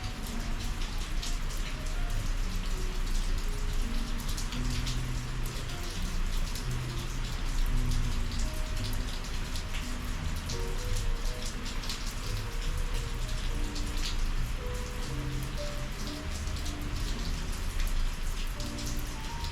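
Steady summer rain falling, with many sharp individual drop hits close by. A soft run of low notes, like quiet background music, sits under the rain.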